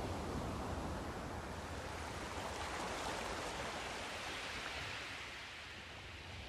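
Sea surf: a wave breaks and washes in, hissing up to a peak about halfway through, then draws back and fades near the end.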